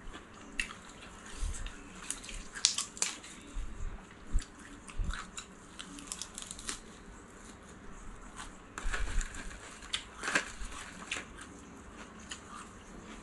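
Close-up eating sounds: chewing and crunching of a fresh lettuce-leaf wrap of raw salmon, with wet mouth clicks and smacks. Near the end, a dried seaweed sheet crinkles as it is folded around a bite.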